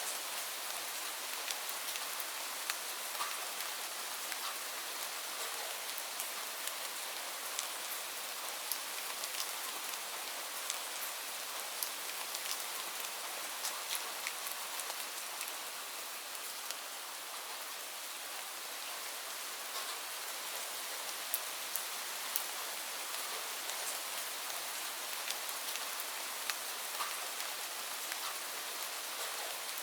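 Steady rain falling, a dense even hiss with frequent sharp ticks of single drops striking a surface.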